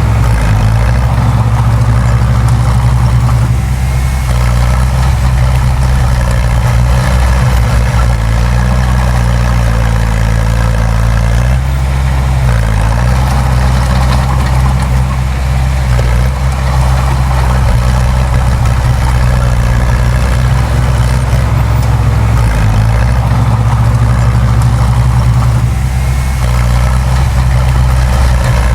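Heavy diesel engine of earthmoving machinery running steadily at a low, even pitch, with brief dips in pitch about twelve seconds in and again near twenty-three seconds.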